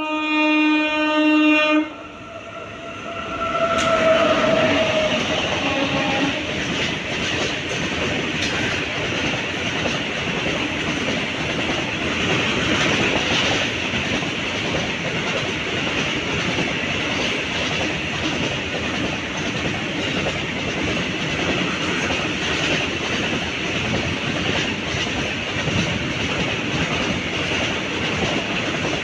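Indian Railways locomotive horn sounding for about two seconds, then a second horn note a few seconds in that drops in pitch as the train nears. An express train then runs past with steady, loud wheel-on-rail clatter.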